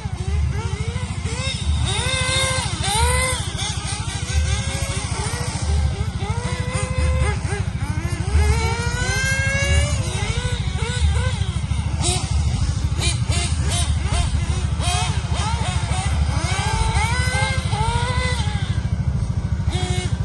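Small nitro engines of 1/8-scale RC cars revving, their pitch rising and falling over and over as the cars accelerate and ease off.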